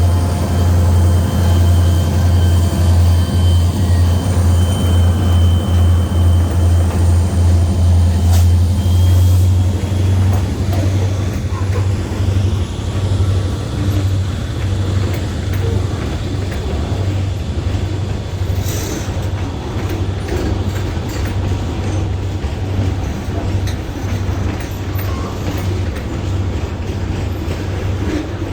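EMD SD40-2 diesel freight locomotives running, a low pulsing engine rumble that is strongest for the first ten seconds or so and then eases as freight cars roll by.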